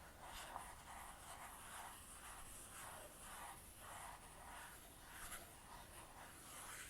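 Makeup stippling brush working foundation in small circular movements, a faint, soft, repeated brushing and swishing, one stroke following another.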